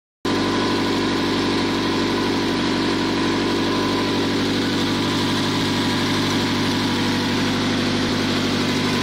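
Ford Focus 2.0 L Zetec DOHC inline-four, swapped into a Ford ZX2, idling smoothly and steadily at about 1200 rpm.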